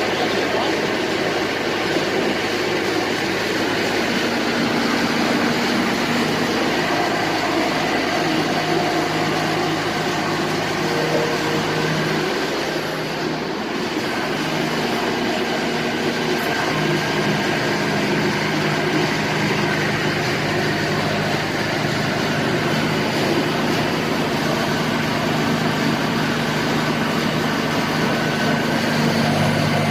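Type 700 full-hydraulic drilling rig running under power, its power head turning: a steady machine drone with humming tones. The drone dips briefly about 13 seconds in and its pitch shifts slightly around 17 seconds.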